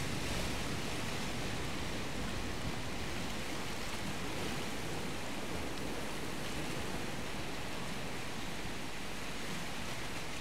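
Steady rush of surf breaking along a rocky sea shore, an even noise with no separate splashes or knocks.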